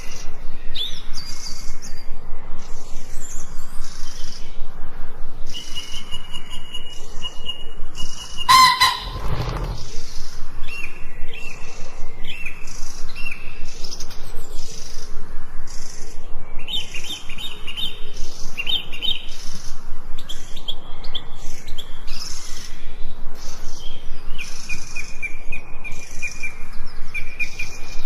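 Forest birds chirping and trilling, several calls overlapping against a steady repeating high pulsing chirp. About eight and a half seconds in, one brief, louder harsh call stands out above the rest.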